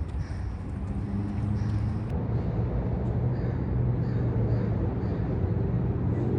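A motor vehicle's engine running steadily at low speed, a low, even hum, with an edit about two seconds in.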